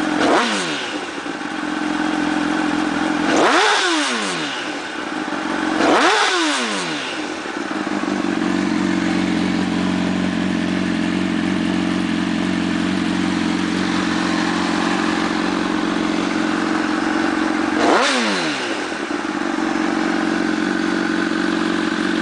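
2006 Honda CBR1000RR inline-four running through an Arata titanium full exhaust, revved in four quick throttle blips that rise and fall back: three in the first seven seconds and one about eighteen seconds in. It idles steadily between the blips.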